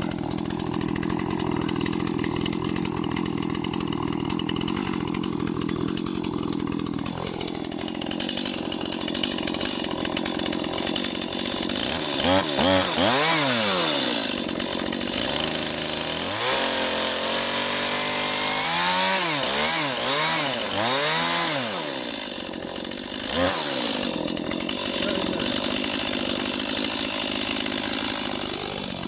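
Chainsaw cutting into an oak log. It runs steadily, sags in pitch about seven seconds in, then from about twelve seconds is revved up and down again and again before settling back to a steady run near the end.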